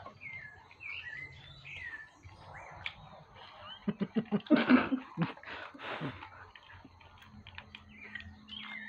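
Caramel popcorn being munched and crunched with mouths pressed into plastic bowls, with snuffling breaths and a burst of rapid crunching and clicks from about four to six seconds in. Short high squeaky chirps come in the first two seconds.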